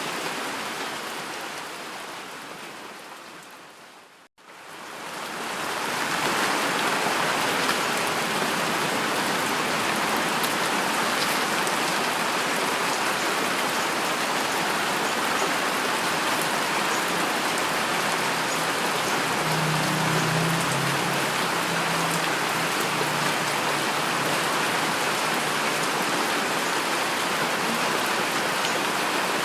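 Rain fades down to a moment of silence about four seconds in, then fades back up to steady heavy rainfall. A faint low rumble comes in around twenty seconds in.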